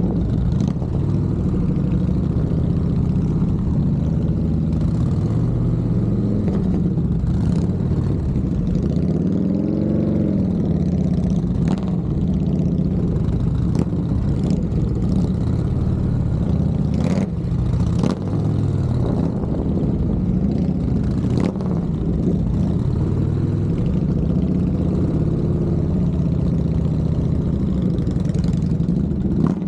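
Motorcycle engine running at low speed, its pitch rising and falling as the throttle is worked through slow-speed manoeuvres, with a few sharp clicks along the way.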